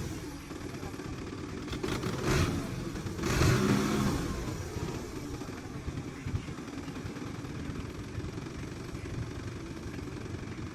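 Tractor diesel engine running steadily, revving up briefly about two seconds in and again, louder and longer, around three and a half seconds in before settling back.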